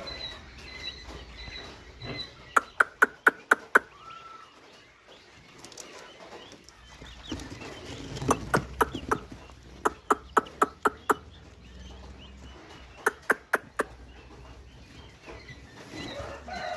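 Turkey poults peeping, broken by four quick runs of loud, sharp taps, about four or five a second.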